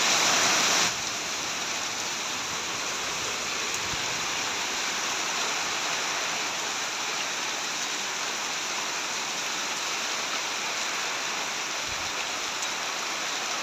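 Heavy rain pouring down in a steady, even hiss, slightly louder for about the first second.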